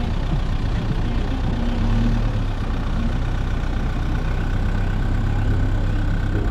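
Car engine and road noise heard from inside the cabin of a moving vehicle: a steady low hum, with a faint steady whine coming in about halfway through.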